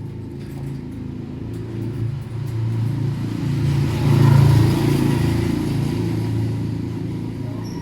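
Low engine rumble of a passing motor vehicle, swelling to its loudest about four and a half seconds in, then fading away.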